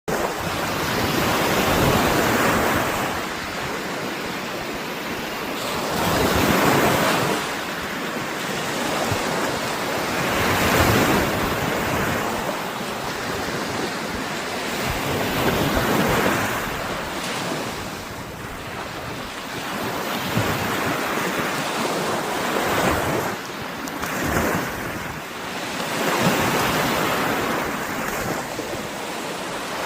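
Baltic Sea surf breaking on the shore: a steady wash of waves that swells and falls back about every four to five seconds.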